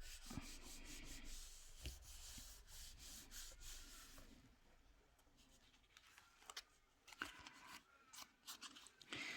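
Paper being rubbed and smoothed down by hand onto a glued surface: a run of quick, faint brushing strokes for about four seconds, then a few light taps and paper-handling noises.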